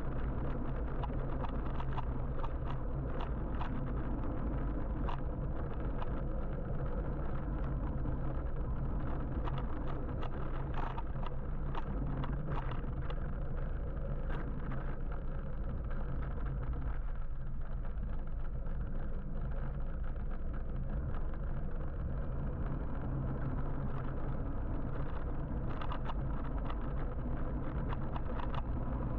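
Steady road and traffic noise heard from an electric motorbike riding through city traffic, a low even rumble with scattered small ticks and rattles.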